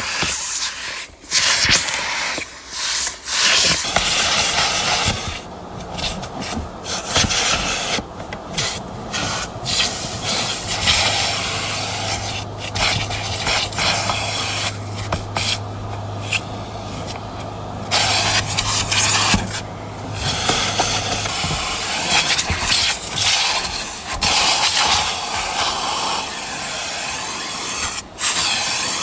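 Car wash vacuum hose sucking at the car's interior upholstery and carpet, a rough hiss with rubbing and scraping as the nozzle is worked over the surfaces, broken off and restarting many times.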